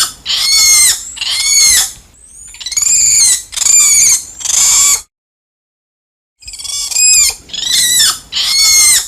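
Spider monkey calling: a quick series of high-pitched calls, each about half a second long and arching up then down in pitch. The calls stop dead for about a second and a half midway, then start again in the same pattern.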